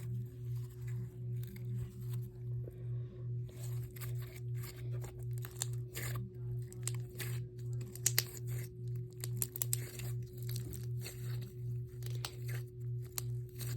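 Cookie dough slime being squeezed and worked to make it crunch: a run of small crackling, popping clicks that starts a few seconds in and is loudest about halfway through. Under it a steady, pulsing low hum continues throughout.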